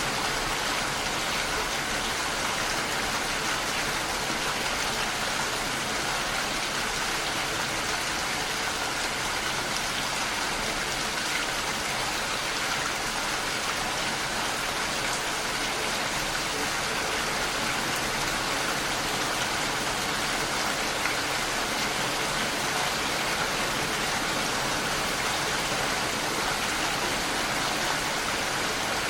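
Heavy rain falling steadily against a window, an even hiss of rain with no letup.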